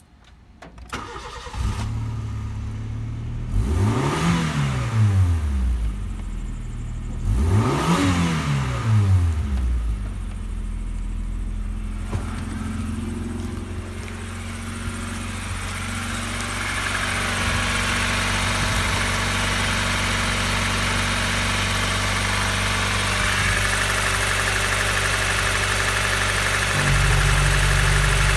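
Honda D14A3 1.4-litre four-cylinder engine starting and idling, revved up and back down twice a few seconds apart, then left running at a steady idle.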